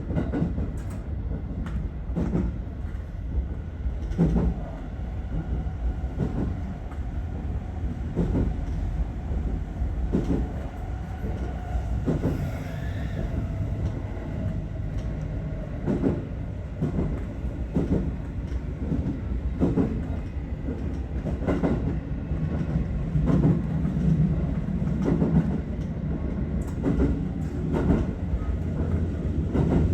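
Aichi Loop Railway 2000 series electric train running, heard from inside the front car: a steady low rumble with wheels knocking over rail joints every second or two. A faint motor whine falls slowly in pitch in the middle.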